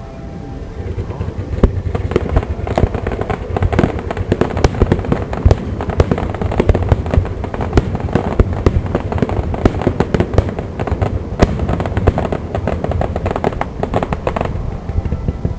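Fireworks display: a rapid barrage of aerial shell bursts and crackling bangs, many a second, starting about a second in and easing off near the end.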